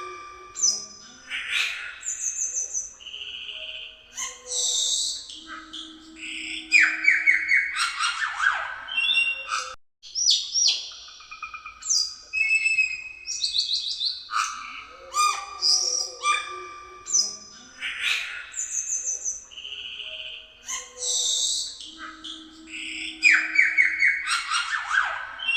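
Cucak keling singing a busy, varied song of whistled notes, quick trills and chattering phrases, with a short low buzzy note now and then. The same sequence of phrases repeats after about 16 seconds, as a looped recording.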